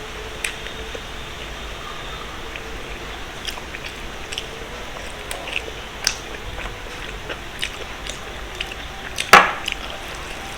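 A person chewing food close to the microphone, with scattered small mouth clicks and one louder sharp click a little after nine seconds in.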